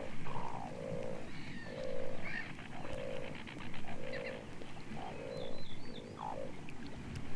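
Asian dowitcher calling: a series of short, low calls at about one a second, with fainter high-pitched chirps above them.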